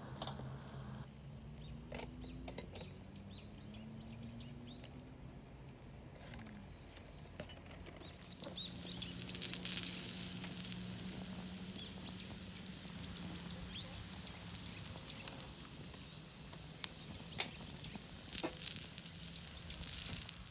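Campfire crackling, with a hissing sizzle that swells about eight seconds in and a few sharp pops near the end.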